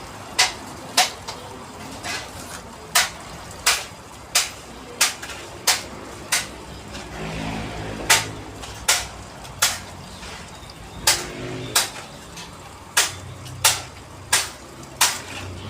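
A hammer striking at a steady pace, roughly three sharp blows every two seconds, with two short pauses partway through.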